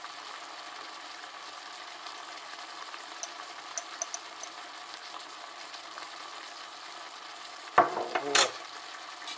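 Chicken and vegetables frying in a kazan for chakhokhbili, a steady sizzle, with a few faint ticks and two short louder knocks about eight seconds in.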